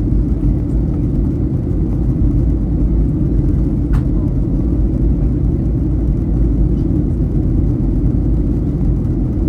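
Steady cabin noise of a Boeing 737-800 in flight: a loud, even low rumble of the CFM56 engines and airflow, with one faint click about four seconds in.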